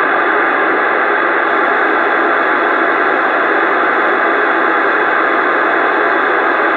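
Steady rushing static from a CB radio's speaker, an even hiss confined to the radio's narrow audio band. It stops suddenly near the end as a voice comes over the channel.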